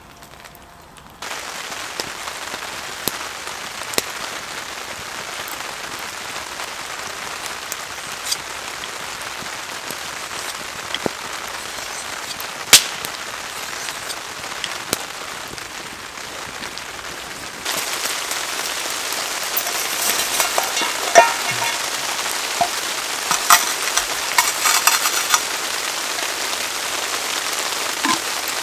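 Steady rain falling, an even hiss with scattered sharp drops and clicks; it steps up abruptly about a second in and gets louder again a little past halfway.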